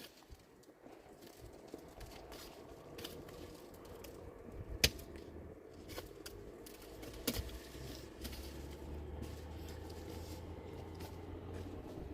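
Wood fire crackling in a fireplace: scattered small pops over a faint hiss, one sharp loud pop about five seconds in, and a low rumble joining from about two-thirds of the way through.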